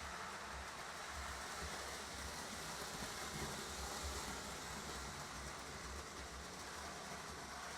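Lionel electric model trains running around the layout's track: a steady motor hum and wheel rumble.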